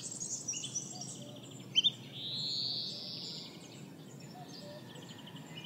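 Woodland birds chirping and trilling over a faint hiss of outdoor ambience. There are two loud, sharp notes just before two seconds in, followed by a long buzzy trill.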